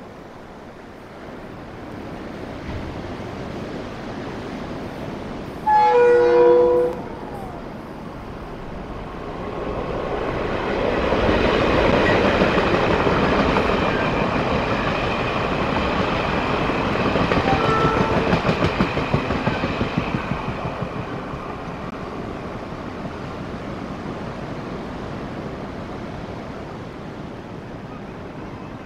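A Taiwan Railway tourist train sounds one short, loud horn blast as it approaches, then runs through the station. The rumble of wheels on rail builds to its loudest over the middle, turns to rapid clickety-clack over the rail joints as the last cars pass, and fades away.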